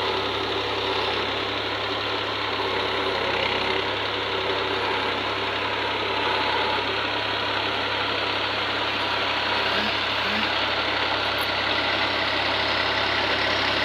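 Tractor engine running steadily at low revs, an even drone with no change in speed.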